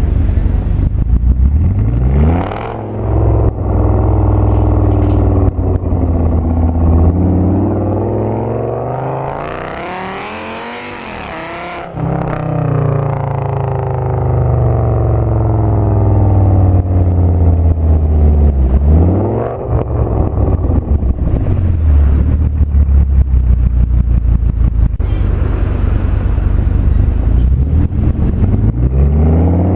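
Audi S8 V10 through a loud Meisterschaft aftermarket exhaust, pulling hard through the gears. The engine note climbs in pitch, drops at each shift, and climbs again. The longest pull peaks about ten seconds in and falls off with a hissing rush; more hard pulls follow later and near the end.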